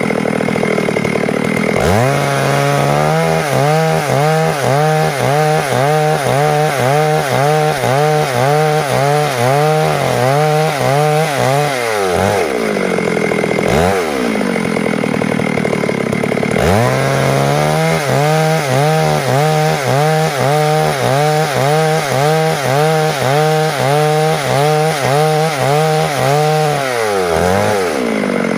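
Stihl MS 382 two-stroke chainsaw cutting lengthwise through wood to make boards. The engine runs under load at a lower pitch that swings up and down about once a second. It revs up high briefly near the start, again about halfway through, and once more near the end, before settling back into the cut.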